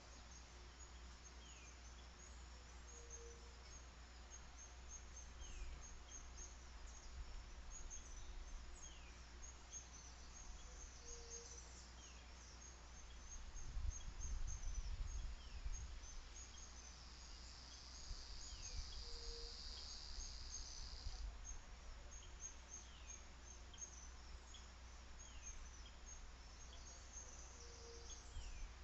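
Faint chorus of insects and wild birds: rapid high chirping throughout, with a short falling call repeated every second or two. A steady high buzz runs for a few seconds past the middle, and a low rumble of wind on the microphone rises about halfway.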